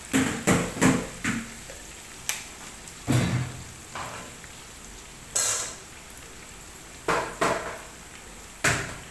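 Kitchen utensils knocking and clattering against a cooking pot, about ten irregular sharp knocks over a faint steady background.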